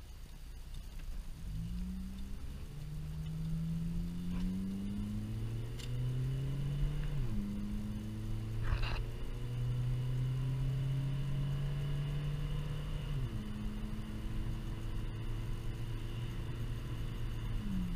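Car engine heard from inside the cabin while accelerating away from a turn: the engine note climbs, then drops as the transmission shifts up about seven seconds in, again about thirteen seconds in, and once more near the end, over a steady road rumble.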